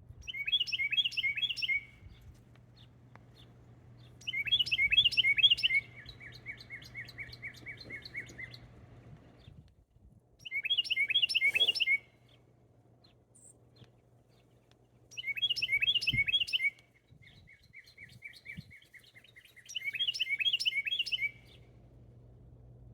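A small songbird singing loudly: five bursts of rapid, chattering notes roughly every four to five seconds, the second and fourth each running on into a slower string of repeated notes for a couple of seconds.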